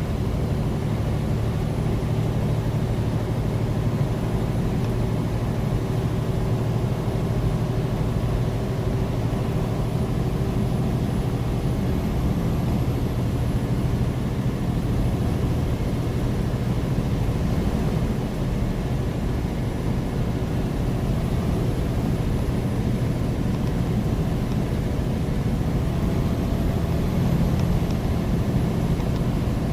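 Semi-truck tractor's diesel engine running steadily at highway speed, with road noise, heard inside the cab.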